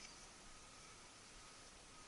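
Near silence: faint steady hiss of room tone, with one small click right at the start.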